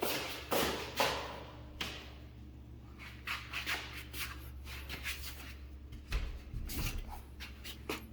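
Footsteps and shuffling: several sharp steps in the first two seconds, then lighter scuffs and taps, over a steady low hum.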